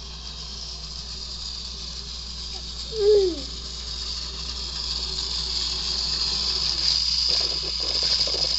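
Plarail toy train's small electric motor whirring steadily as it runs along the plastic track, growing slowly louder. A short falling vocal sound comes about three seconds in.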